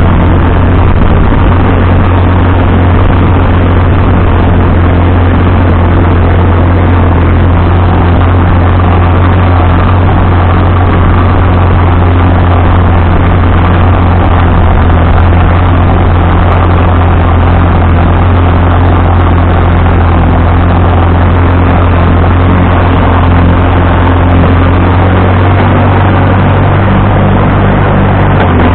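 Vintage tractor engine running steadily with a deep, constant hum; its tone shifts slightly near the end.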